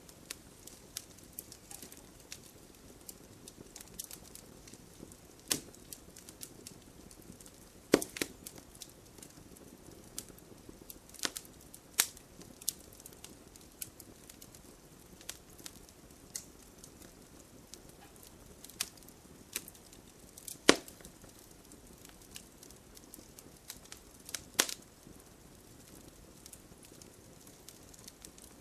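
Fire in a fireplace crackling steadily over a low rustle, with irregular sharp pops, a few much louder than the rest.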